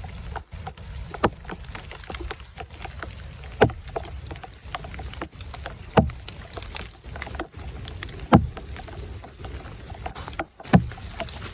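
Evenly spaced sharp knocks, about one every two and a half seconds, over a steady low rumble with scattered faint clicks.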